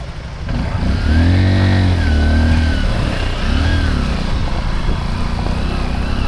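Motorbike engine revving hard twice, rising and falling in pitch about a second in and again near four seconds, then running steadily under load as the bike is ridden out of the river.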